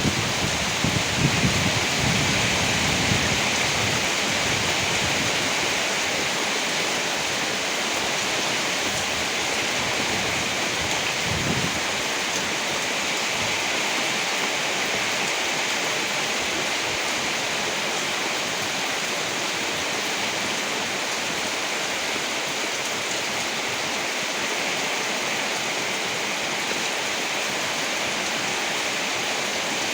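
Steady heavy rain hissing, with low thunder rumbling in the first few seconds and a shorter rumble a little before the middle.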